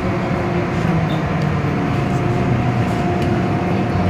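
MTR Tsuen Wan Line M-Train running, heard inside the carriage: a steady rumble of the train on the track with a steady motor hum over it.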